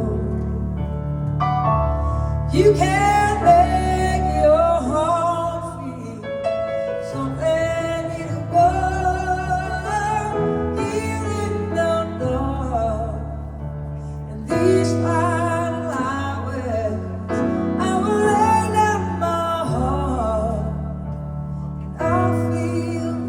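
Live band playing a slow ballad: piano and bass sustain the chords beneath a wavering lead melody line.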